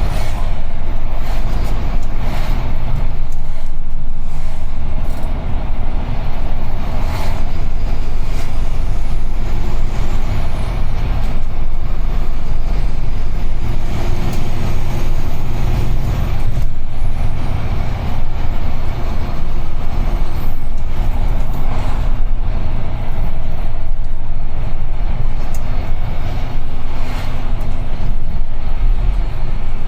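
Cab noise of a UD Trucks Quon heavy diesel truck under way: a steady low rumble of engine and road, with a few brief knocks or rattles now and then.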